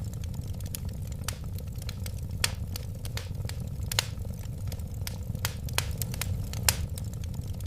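Wood fire burning in a fireplace: a steady low rumble of flames under irregular sharp crackles and pops, several a second, a few of them louder.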